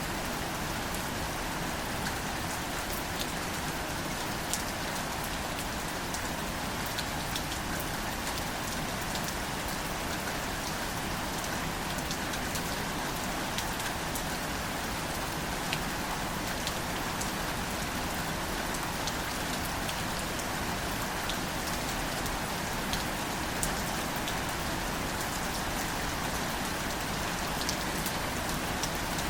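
Steady, gentle rain falling on wildflower foliage, with single close drops ticking sharply here and there through the even patter.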